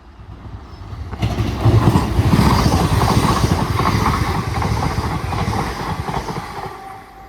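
Class 802 bi-mode train passing at speed without stopping: rushing wheel-on-rail noise that builds about a second in, stays loud for about five seconds, then fades near the end.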